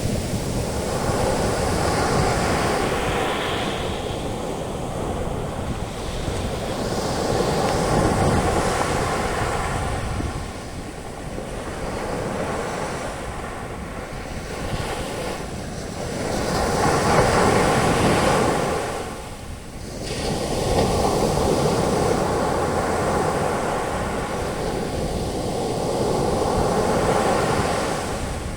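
Ocean waves breaking and washing up the beach as foaming surf, in a steady rush that swells and fades every few seconds, with the loudest surges about eight seconds in and again near the middle.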